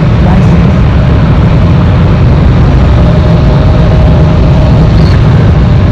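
Jet airliner engines running loud and steady at close range, a deep rumble with a faint steady whine that comes in about halfway through.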